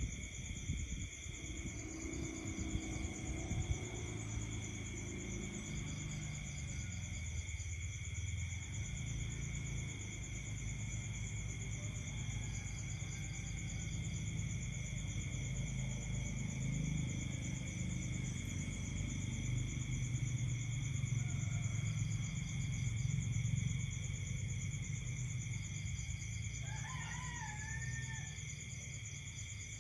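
Night chorus of insects and frogs: steady high-pitched insect trilling at several pitches, with pulsed trills starting and stopping every few seconds over a low, rough croaking. Near the end, one short call rises and then wavers.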